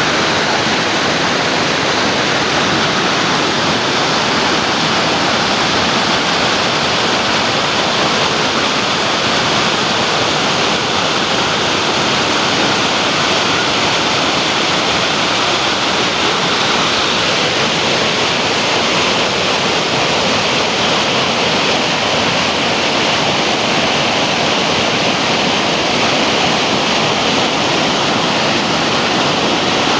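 Water pouring down a waterfall, a steady loud rush.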